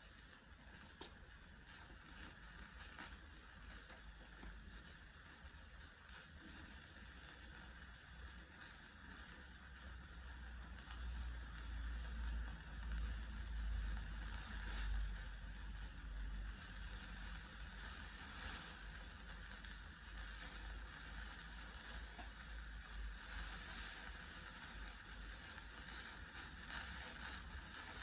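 Horumon (offal) sizzling on a grill over a campfire, a steady crackling hiss. A low rumble rises under it for several seconds in the middle.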